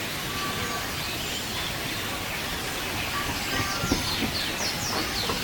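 Birds chirping with short, quickly falling high calls that start about three seconds in, over a steady even background hiss.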